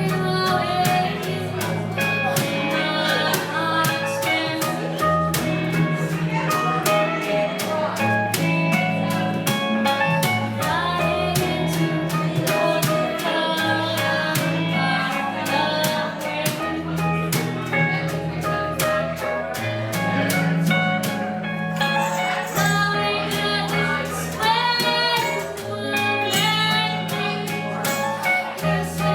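Live band playing a jazz song, with guitar over a moving bass line and a steady beat of drum hits, and singing.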